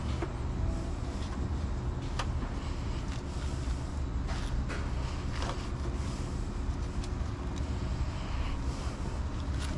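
A car engine running steadily, with a few light clicks over it.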